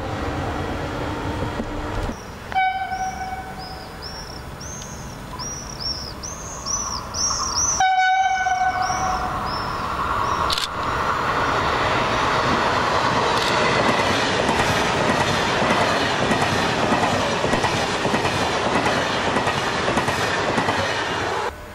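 An electric locomotive hums steadily for the first two seconds. Then an Italo high-speed train sounds its horn twice, each blast about a second long, and passes through the station at speed with a loud, swelling rush of wheels and air that lasts to the end.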